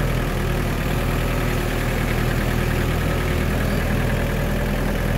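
Small diesel tractor engine running steadily at a constant speed as the tractor drives along.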